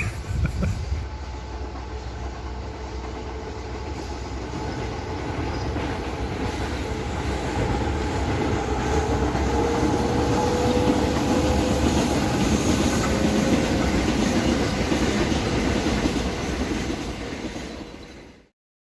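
Freight train running past on the railway line, a steady rumble that grows to its loudest about halfway through, with a faint steady whine over it, then fades; the sound cuts off abruptly just before the end.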